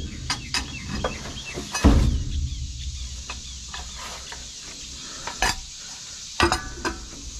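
Rummaging through a dumpster for scrap metal: scattered clinks and knocks as pieces are handled and shifted, with one heavier thump about two seconds in.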